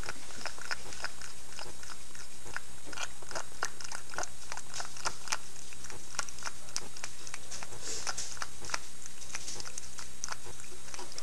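Domestic cat eating its food: a quick, irregular run of short chewing and biting clicks, several a second.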